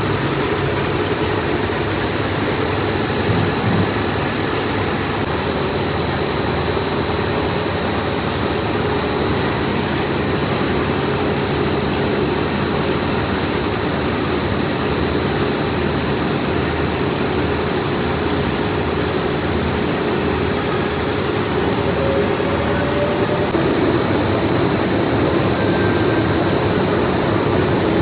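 Factory machinery running steadily: a constant loud mechanical hum with a steady high-pitched whine over it.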